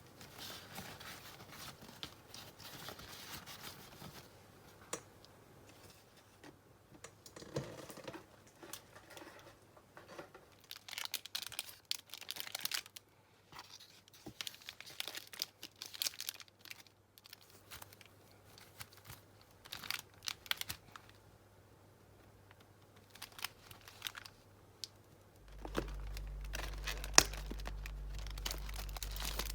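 Hands rustling and crinkling materials, with scattered small clicks and taps. About 25 seconds in, a steady low hum starts.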